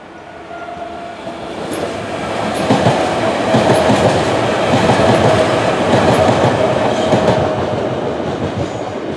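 London Overground Class 378 electric train passing close by, wheels clattering over the rail joints, with a steady whine above the rumble. It builds up over the first few seconds and fades away near the end.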